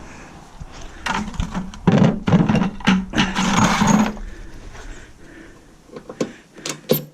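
A small power tool's motor runs in short bursts while a metal equipment casing is taken apart. Near the end come a few sharp light clicks of metal parts.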